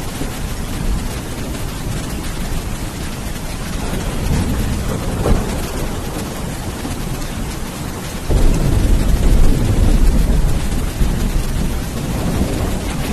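Steady heavy rain with thunder: a sharp crack a little over five seconds in, then a loud low rumble of thunder that breaks in suddenly past the midpoint and rolls on for several seconds.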